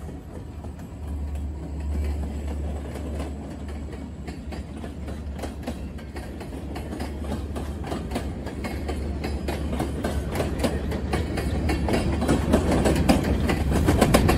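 Union Pacific freight train passing: covered hopper cars rolling by with their wheels clicking over the rail joints over a steady low rumble. The clicking grows louder and busier toward the end.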